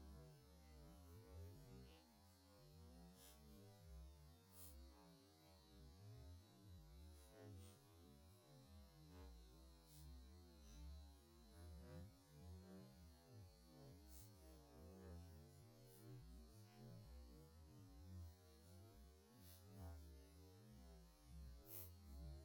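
Near silence: a faint campfire with a few soft, scattered crackles over a low steady hum.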